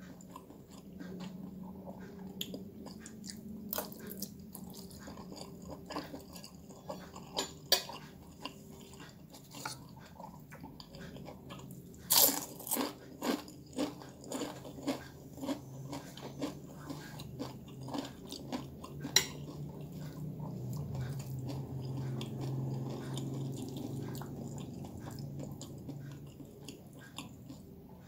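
A man chewing a mouthful of fried noodles, close to the microphone, with a quick run of loud crunching bites about twelve seconds in, roughly two a second, and scattered sharp clicks between.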